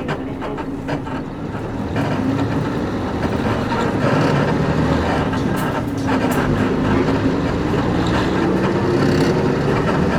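Cabin sound of a Nissan Diesel KC-UA460LSN bus under way: its PG6 diesel engine running, with the engine note picking up about two seconds in. Road noise and a few short clicks and creaks of the leaf-sprung body come through around the middle.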